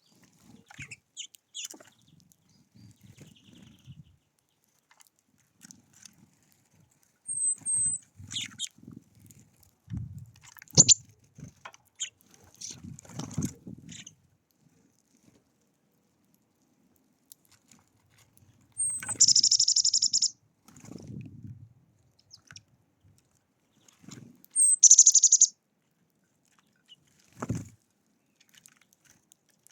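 Small songbirds at a feeder: scattered high chirps, then two short, fast, buzzy trills of about a second each, one past the middle and one later, each opening with a high slurred note. Between them come soft low bumps and a sharp knock about eleven seconds in, from the birds' activity at the feeder.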